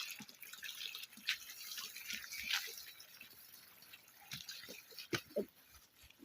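Water trickling and dripping over stones in a shallow river, with scattered sharp drips; the running-water hiss fades after about three seconds.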